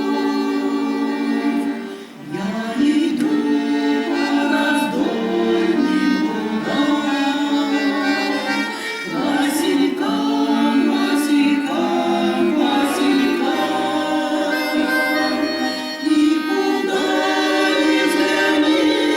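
A group of voices singing a song in chorus with instrumental accompaniment, pausing briefly between phrases about two seconds in.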